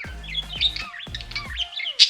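Budgerigars chirping and chattering in a rapid run of short, gliding chirps, over background music with steady low notes.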